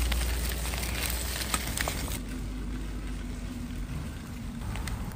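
Eggs and sausage slices sizzling as they stir-fry in a steel wok, with chopsticks clicking against the pan and a low rumble underneath. The sizzle drops quieter about two seconds in.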